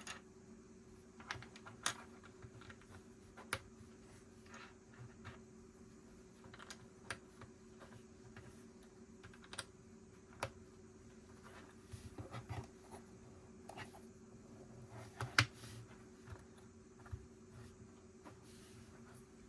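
Lego bricks being handled and pressed together: scattered small plastic clicks and rattles at an uneven pace, the sharpest about fifteen seconds in, over a faint steady hum.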